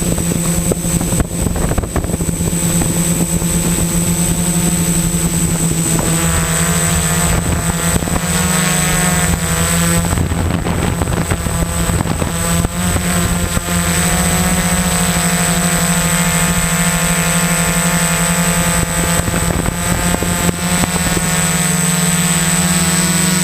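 XAircraft X650 Pro V4 quadcopter's electric motors and propellers droning steadily in flight, with a constant high whine. The pitch wavers between about six and fourteen seconds in, then holds steadier.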